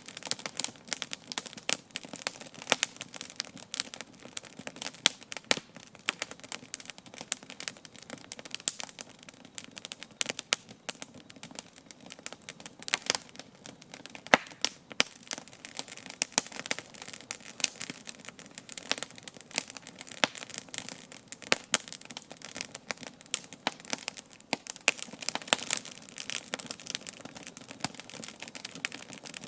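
Wood campfire crackling steadily: a dense, continuous run of small sharp snaps, some louder than others.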